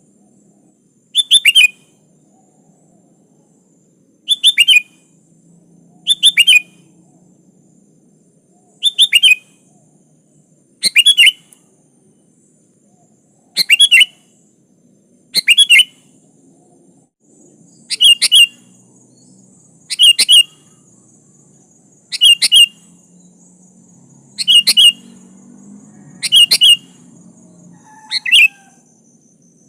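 Sooty-headed bulbul (kutilang) calling: a short, loud two-note chirp repeated about every two seconds, thirteen times.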